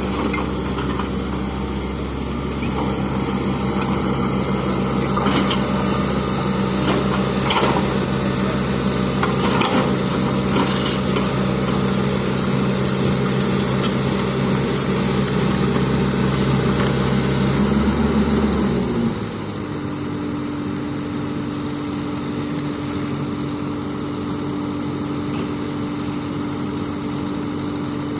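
Excavator diesel engine running steadily, with scattered clicks and clatter over it. About two-thirds of the way in the engine note shifts and the sound drops to a quieter, steady hum.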